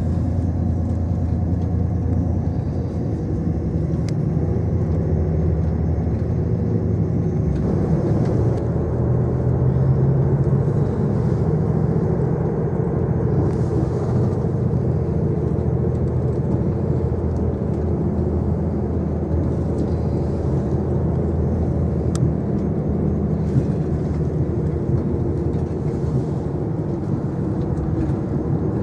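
Passenger train running along the track, heard from inside the carriage: a steady rumble of wheels and running gear, slightly fuller from about eight seconds in, with a couple of faint clicks later on.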